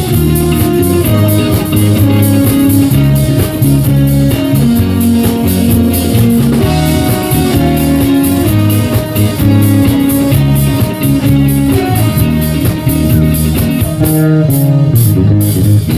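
Live rock band playing a song's instrumental intro on electric guitar and drum kit, with an even, driving beat.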